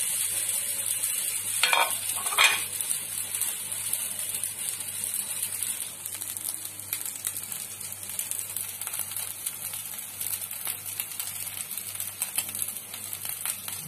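Sabudana-potato tikkis shallow-frying in a little refined oil in a non-stick pan over a low gas flame: a steady sizzle with fine crackling. Two short clicks come about two seconds in.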